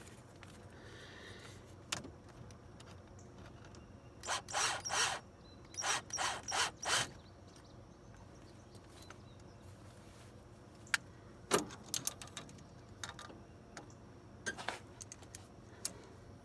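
Hand-tool work on metal parts. About four seconds in come two quick clusters of short rasping strokes, several to each cluster. After them come scattered sharp clicks and taps.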